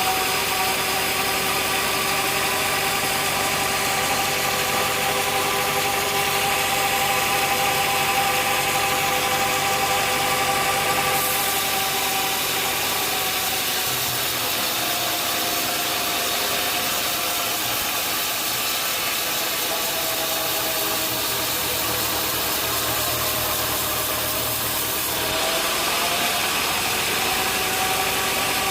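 Sawmill machinery running steadily: a motor hum and whine over a hiss. The whine sags a little in pitch through the middle and comes back up near the end.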